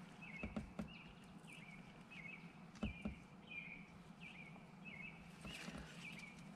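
A bird chirping repeatedly, about two short calls a second, with a few light clicks of metal tools being handled near the engine.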